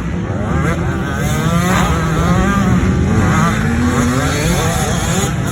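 Motocross dirt bike engines running hard, their pitch rising and falling as the throttle is worked, over a steady loud rumble.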